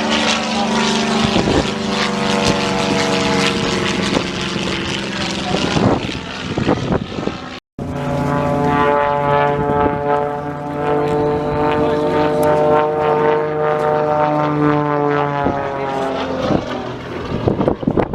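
A propeller-driven light aircraft's engine drones steadily. There is a short break a little under halfway through, and near the end the pitch falls as the aircraft passes.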